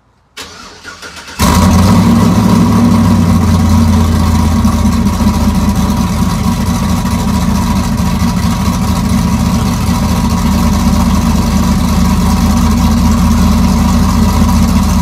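A car engine cranking briefly, catching about a second and a half in, then running at a steady, loud idle with a deep rumble.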